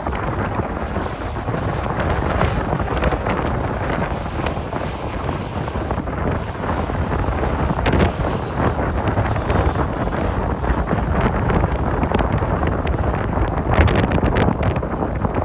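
Strong wind buffeting the microphone: a heavy, gusting low rumble with no clear tone standing out.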